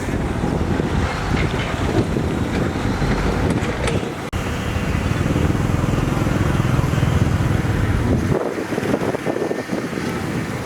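Heavy construction machinery's diesel engines running, with wind buffeting the microphone. The sound breaks off sharply about four seconds in and changes again near eight seconds.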